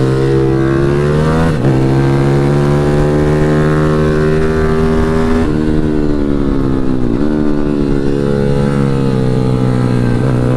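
Pit bike engine running hard on track, heard on board: its pitch holds and slowly climbs, then dips sharply as the revs drop, about a second and a half in, again around five and a half and seven seconds, and once more near the end.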